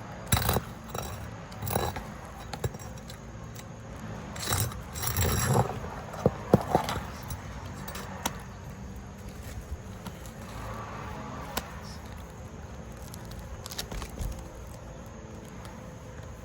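Scattered knocks, clicks and scrapes of hand work on a shingle roof, busiest about four to seven seconds in.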